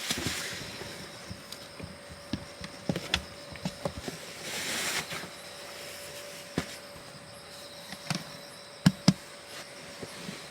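A series of light knocks and clicks, with two sharper knocks close together near the end and a short rushing swell midway, over a steady background of insects calling.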